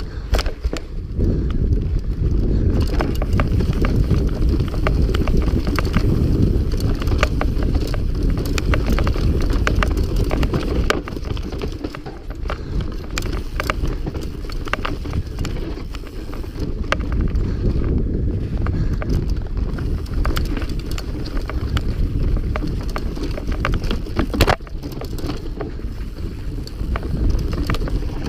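Mountain bike riding over rough, dusty trail: frame and chain rattle and clatter over the bumps, with wind rumbling on the microphone. A hard knock comes about 24 seconds in.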